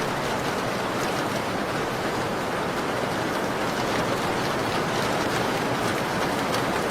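Steady rain falling against a window: a continuous even hiss with scattered faint, short high ticks.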